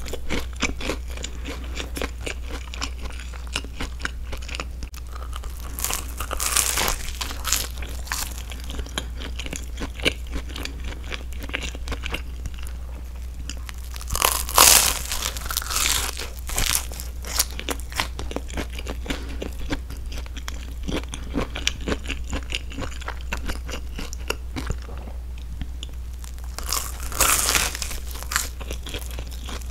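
Close-miked chewing and biting of a grilled broccoli-and-cheese sandwich: the toasted crust crunches amid soft, moist chewing, with breathing through the nose. Louder crunchy bites stand out about a fifth of the way in, about halfway, and near the end.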